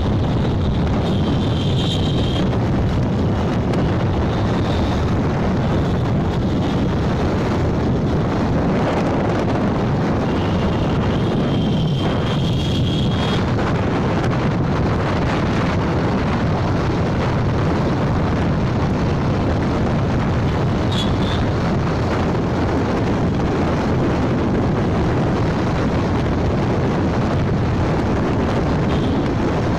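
Steady rush of wind buffeting the microphone on a moving motorcycle, mixed with road and engine noise. Brief high-pitched tones sound twice, about two seconds in and again around twelve seconds.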